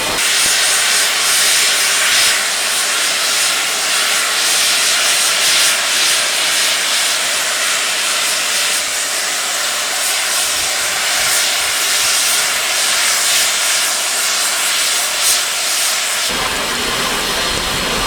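Steam locomotive blowing off steam: a loud, steady hiss.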